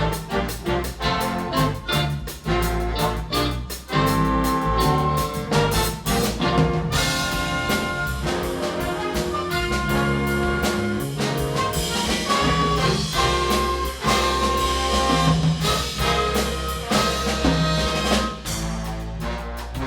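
Big band jazz ensemble with trumpets, trombones and saxophones playing. Short punchy chord stabs for the first few seconds give way to fuller, held brass chords, which ease off near the end.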